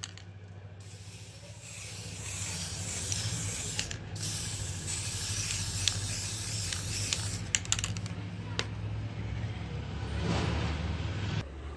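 Aerosol spray paint can spraying in two long hisses with a short break between them, the second cutting off shortly before the end, with a few sharp clicks along the way.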